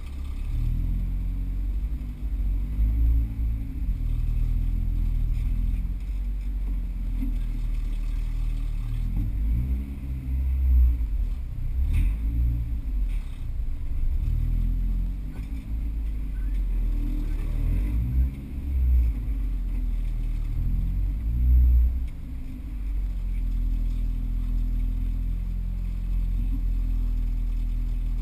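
Car engine running at low speed as the car is backed up and manoeuvred, heard from inside the cabin, with several short revs, the strongest about 11 and 22 seconds in.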